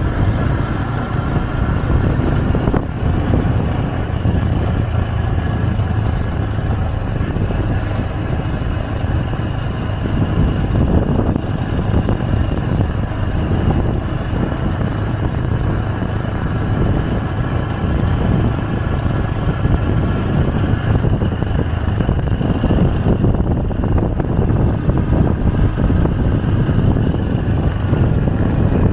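Riding on a motorcycle taxi: the motorbike's engine running steadily amid road and traffic noise, with faint higher tones drifting in pitch.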